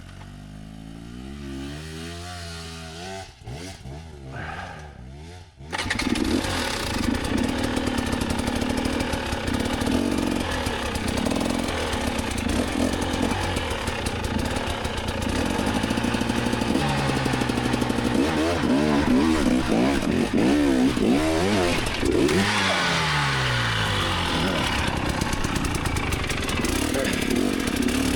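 Enduro dirt bike engine revving: quieter at first, rising and falling in pitch, then about six seconds in it becomes suddenly much louder and stays hard on the throttle, the revs rising and dropping again and again.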